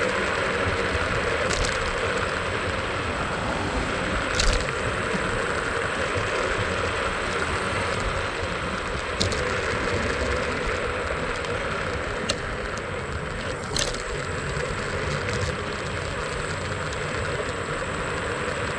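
Steady street and traffic noise heard from a moving scooter, with a few short sharp clicks or knocks scattered through it.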